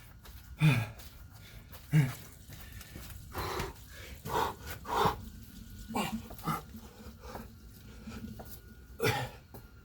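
A man breathing hard and panting with effort mid-workout. Two sharp grunts dropping in pitch come in the first two seconds, followed by a series of heavy gasping breaths.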